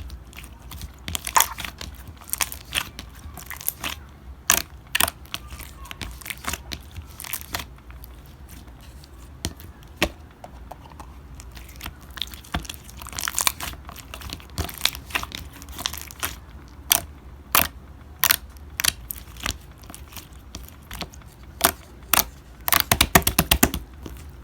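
Slime being pressed and worked by hand, giving irregular sharp clicks and pops, with a quick run of clicks near the end.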